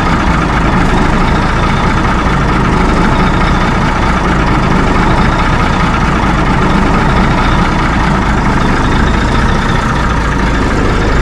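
Mack B-model truck engine idling steadily, running to build up air pressure in the brake system.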